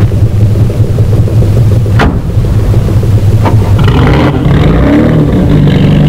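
Small sports car's engine running, a car door shutting about two seconds in, then the engine revving up with a rising pitch as the car pulls away.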